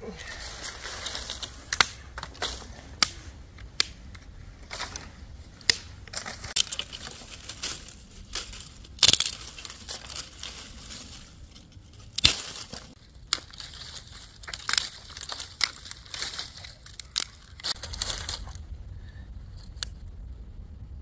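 Irregular crunching and sharp snapping of dry material, with single loud cracks scattered among stretches of crackly rustle.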